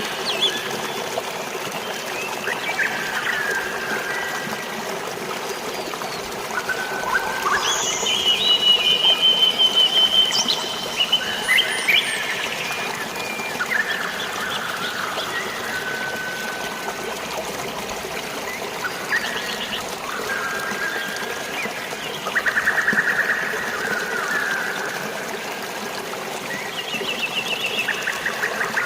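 Steadily trickling and splashing water with many birds chirping and calling over it, including trilled songs about eight seconds in and again about twenty-three seconds in.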